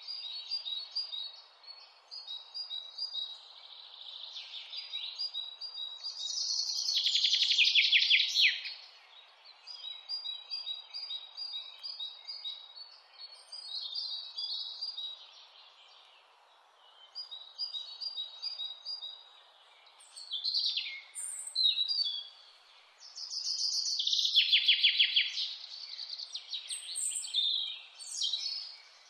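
Mountain songbirds singing: repeated short high chirps, with a louder rapid trill about seven seconds in and again about twenty-four seconds in, over a steady faint hiss.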